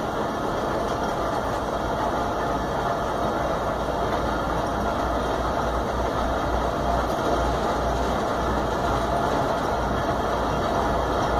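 Diesel-hauled passenger train running on a curve, heard from an open carriage window: a steady rumble and rush of wheels on the track.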